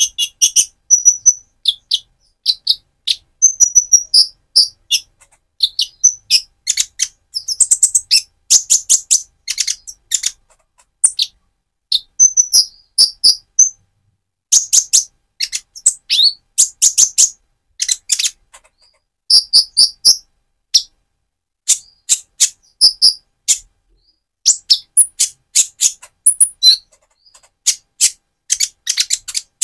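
Purple-throated sunbird (konin, Leptocoma sperata), a young bird still in speckled plumage, singing busily: rapid strings of thin, high chirps and twitters in spurts of a second or two with short breaks between.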